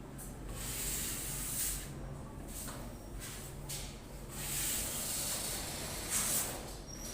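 Steel trowel scraping wall putty across a wall in several long strokes, each about a second, with a faint steady hum underneath.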